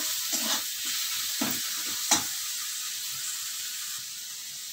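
Onion-garlic masala and chopped tomato sizzling in oil in a metal kadhai, with a metal spoon scraping and knocking against the pan a few times in the first two seconds as it is stirred, then a steady sizzle.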